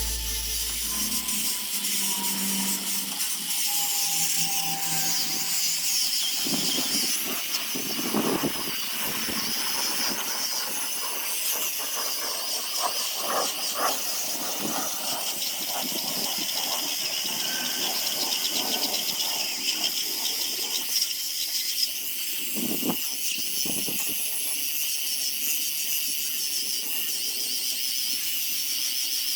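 Power sanding tool running against zelkova root wood: a steady high hiss with rough scraping that swells and eases as the tool is worked over the surface.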